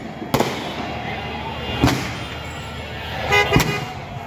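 Fireworks going off: three sharp bangs about a second and a half apart over a steady crowd din, with a brief horn toot just before the last bang.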